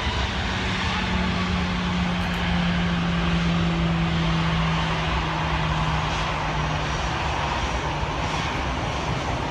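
Steady aircraft noise heard inside an Airbus A320 cabin: a continuous rushing hiss with a low hum underneath that fades out about three-quarters of the way through.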